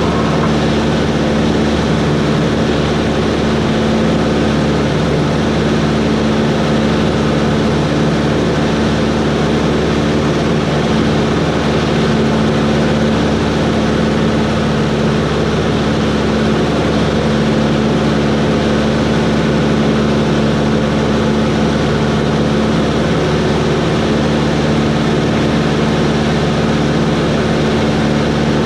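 Cessna 140's four-cylinder air-cooled engine and propeller running steadily in flight: a constant drone with no change in pitch.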